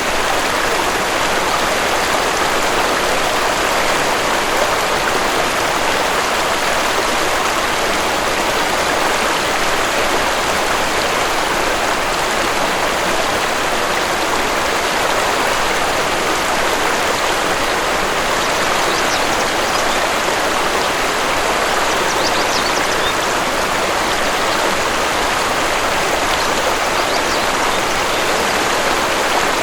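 Waterfall rushing steadily, an even roar of falling water, with a few faint high bird chirps around the middle.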